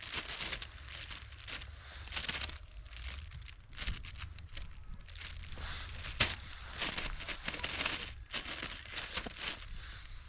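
Irregular rustling and crinkling noise close to the microphone, with a sharp click about six seconds in, over a steady low rumble.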